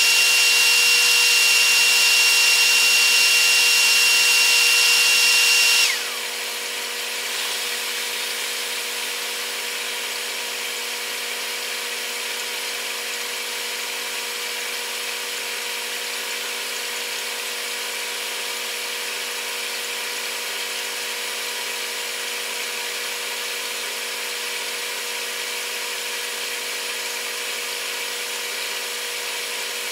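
Running noise of a Taiwan Railways EMU100 train, played back at eight times speed so that it comes out as a steady high-pitched whirring drone. About six seconds in, a high whine cuts off and the sound drops to a quieter steady whir.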